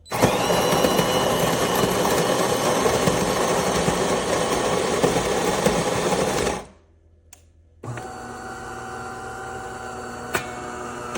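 De'Longhi Magnifica Start espresso machine grinding coffee beans in its built-in grinder for about six and a half seconds. After a pause of about a second, a quieter, steady machine hum starts.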